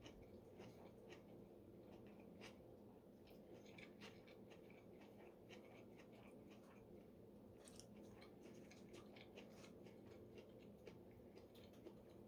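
Faint chewing of a mouthful of rice, shrimp and seaweed: soft, irregular mouth clicks over a low steady hum.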